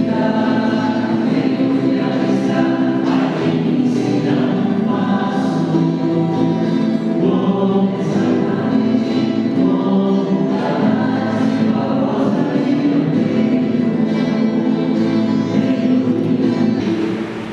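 Church choir singing a hymn, the opening hymn of the Mass, with sustained held notes throughout.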